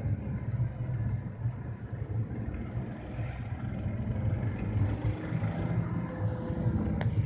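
BMW M54B30 3.0-litre straight-six engine running with a steady low rumble, its pitch drifting slightly up and down. The owner reports a bad sound from it at about 2000–2500 rpm. A single sharp click comes near the end.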